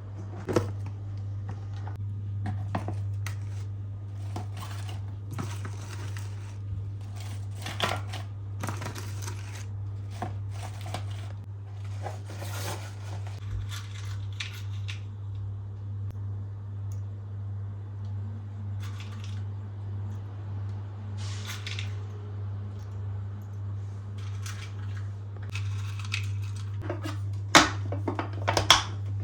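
Hands handling food containers and packaging while organising a refrigerator: light clicks, taps and rustles of plastic and wrapping, with a few louder clattering knocks near the end, over a steady low hum.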